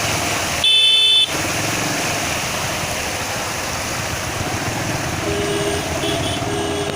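A vehicle horn gives one short, loud blast about a second in, and fainter horn toots follow near the end, over a steady rushing noise.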